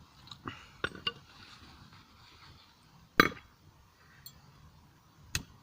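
Scattered metallic clinks and knocks of blacksmithing tools and steel on a small anvil, a few light taps in the first second. The loudest is one sharp metal strike about three seconds in, with another just before the end.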